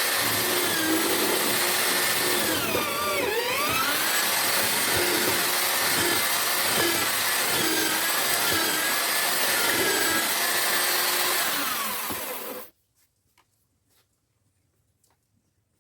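Homemade drill-powered mortiser running and cutting into wood. Its motor whine sags in pitch several times under load, most deeply about three seconds in. The motor is switched off well before the end, leaving only a few faint ticks.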